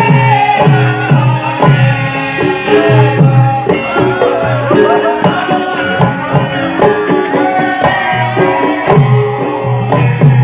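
Javanese gamelan music accompanying a lengger mask dance. Sustained melodic lines play over regular low kendang drum strokes, about one a second.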